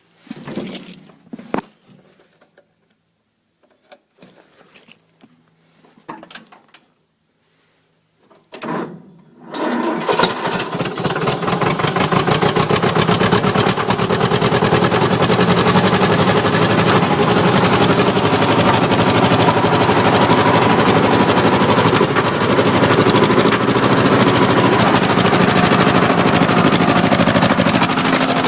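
A few scattered clicks and knocks, then the 1954 Fordson Major's four-cylinder diesel engine cranks and catches about ten seconds in. It settles into a steady, rapid diesel knock on its first cold start after about five years seized.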